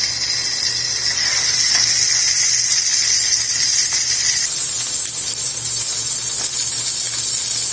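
Fish frying in hot oil: a steady, loud sizzle whose tone shifts a little about halfway through.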